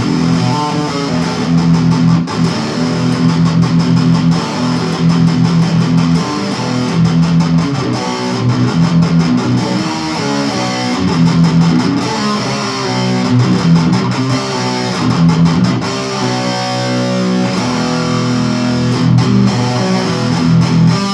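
Electric guitar playing a thrash-metal style riff, low notes picked quickly and repeatedly.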